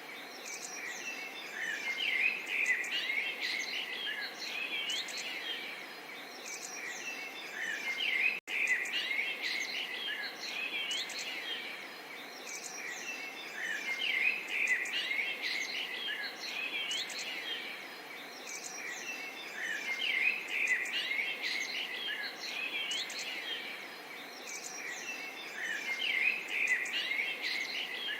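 Small birds chirping and twittering in quick overlapping calls over a faint steady murmur of running water, the same stretch of birdsong recurring about every six seconds as a loop. A brief dropout about eight seconds in.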